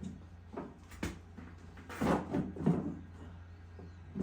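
Irregular knocks and clunks of wood stove parts being handled and fitted into place, a handful of separate bumps with a busier cluster around two to three seconds in.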